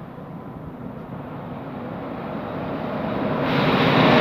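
Two ÖBB electric locomotives, a Class 1144 and a Class 1116 Taurus, hauling a freight train as it approaches, growing steadily louder. The noise grows sharply fuller and brighter about three and a half seconds in as the train draws close.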